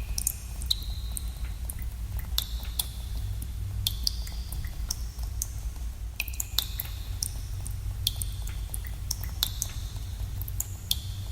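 Water drops falling in a cave at irregular intervals, roughly one or two a second. Each drop is a sharp plink with a short ringing tone, over a steady low rumble.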